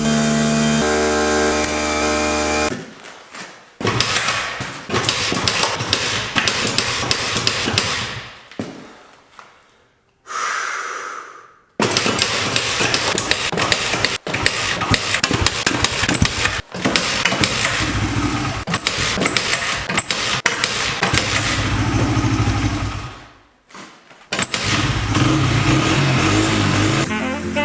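Honda XR80R dirt bike's single-cylinder four-stroke engine running and revving, in several clips that cut in and out abruptly. Music plays at the start and again near the end.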